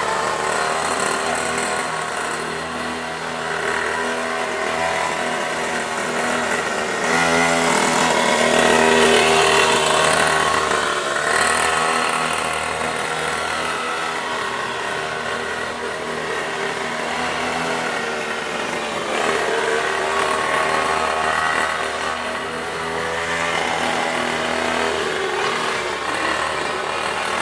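Mini pocket bike's small pull-start engine running with a buzzing note as it is ridden, revving up and easing off several times, loudest about a third of the way in.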